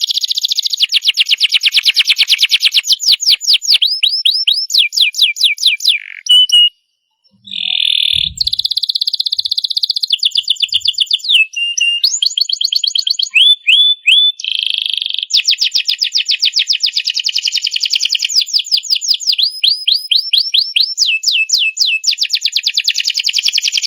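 Domestic canary singing a long song of fast rolling trills, the notes repeating many times a second and switching in pitch and speed from phrase to phrase, with a brief break about seven seconds in.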